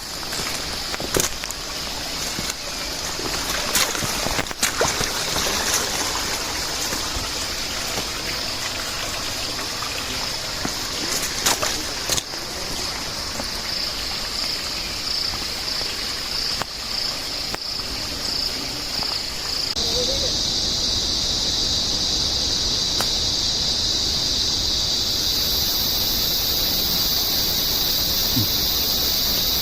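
Rainforest insects droning steadily at a high pitch. About twenty seconds in the drone becomes louder and slightly lower, and a second, even higher insect tone joins near the end. A few sharp clicks and rustles come in the first dozen seconds, over a soft trickle of water.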